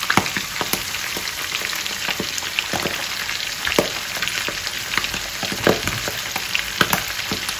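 Flour-coated squid, shrimp and mussels frying in a pan of hot oil: a steady sizzle with frequent irregular crackles and pops, a few of them sharper and louder.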